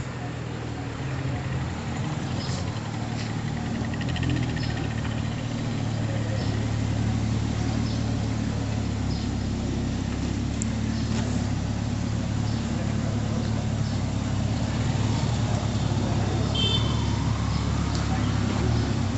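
Lamborghini Huracán's V10 engine running at a steady, even idle, growing slightly louder over the first half.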